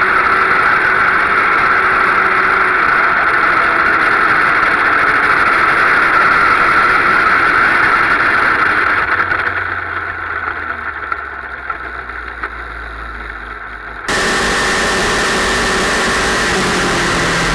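Sport motorcycle under way, a 2006 Suzuki GSX-R1000's engine with heavy wind noise, steady for about nine seconds. It then eases off to a quieter, low engine note. About fourteen seconds in the sound jumps abruptly louder, with the engine note rising near the end.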